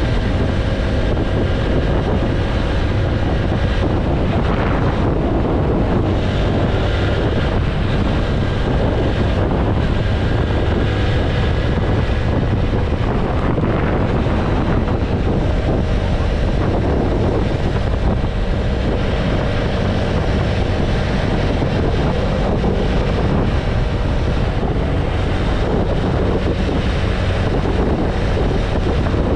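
Heavy wind rushing over the microphone of a motorcycle cruising at steady speed, with the single-cylinder engine of the TVS Apache RTR 160 4V running underneath at an even pitch.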